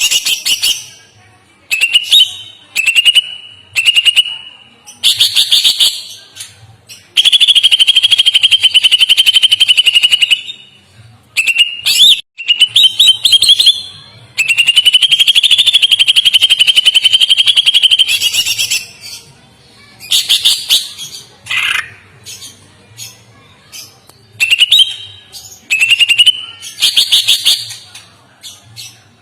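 A songbird singing loud, high-pitched, rapidly trilled phrases: short chirped phrases broken by pauses, and two long, unbroken trills of about three to four seconds each in the middle.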